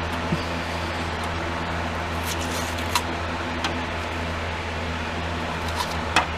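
A steady mechanical hum, like a fan or motor running, with a few light clicks and a short scratchy sound a little over two seconds in.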